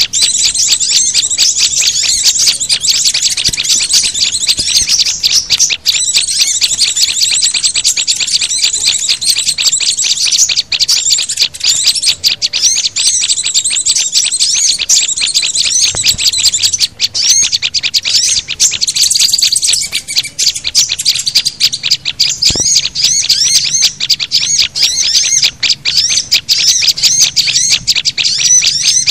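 Bird-lure recording of mixed small songbird calls, such as white-eyes, prinias, sunbirds and flowerpeckers: a dense, continuous stream of rapid, high-pitched chirps and trills, many notes a second, loud and without pauses.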